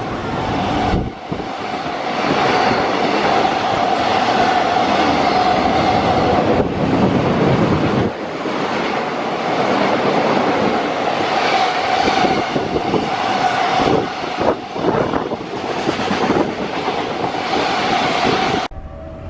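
Freight train running past, its wagon wheels clattering steadily over the rails with a constant tone under the rush; the sound cuts off suddenly near the end.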